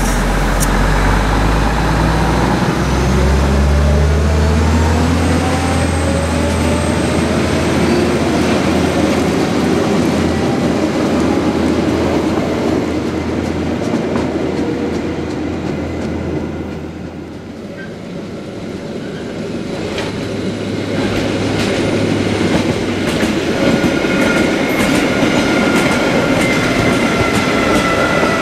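Rhaetian Railway diesel shunting tractor running under load, its engine note rising over the first few seconds as it hauls a short freight train past. The engine hum fades around the middle, and the wagons roll on with clicks over the rail joints and a steady high wheel squeal over the last few seconds.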